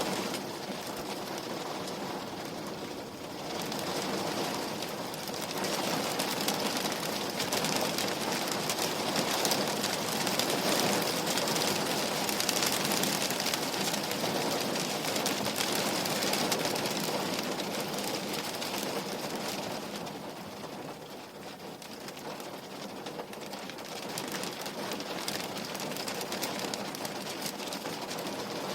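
Rain pattering steadily on a window pane, easing slightly twice and then building again.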